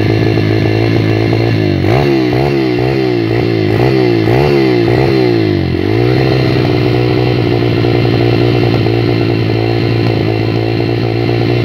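Pit bike's small single-cylinder engine idling, then revved in quick blips about twice a second for a few seconds before settling back to a steady idle.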